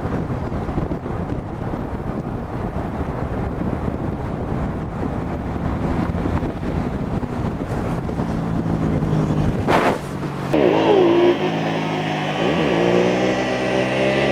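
Motorcycle engine with heavy rumble and wind noise for most of the stretch. After a break about ten seconds in, a sport-bike engine revs up and down twice and then settles to a steady run.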